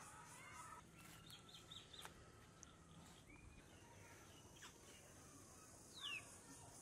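Faint small-bird chirps: a quick run of short high chirps, then a single down-slurred call near the end.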